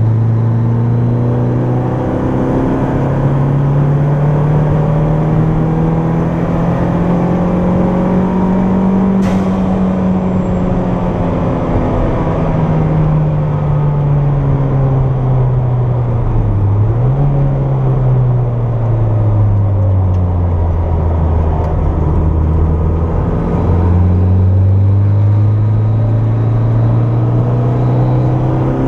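Turbocharged Toyota MR2 engine heard from inside the cabin at a track session. It pulls up through the revs for several seconds, then falls away as the driver lifts, with a quick rev blip about halfway through. The pitch drops suddenly at a gear change and then climbs again under acceleration.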